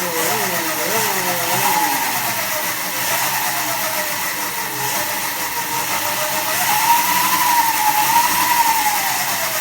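The 72-volt electric motor of a converted Honda Monkey mini bike whines under a sine-wave controller as it is ridden. The whine rises and falls in pitch several times in the first few seconds as the throttle is worked, climbs again in the middle, holds, then falls away near the end. A steady rushing noise runs underneath it.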